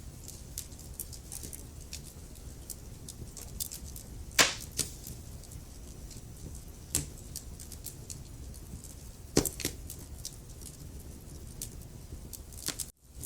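Wood fire crackling: a steady low rumble of flames under a stream of small crackles, with sharp, louder pops of burning wood about four and a half, seven and nine and a half seconds in. The sound cuts out for a split second near the end.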